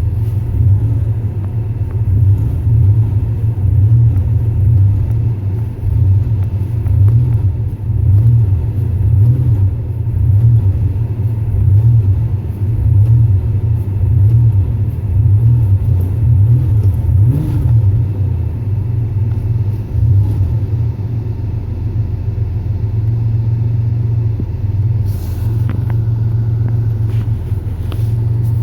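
Car engine idling with a low, uneven rumble that swells and fades about once a second, then settles into a steadier idle about twenty seconds in.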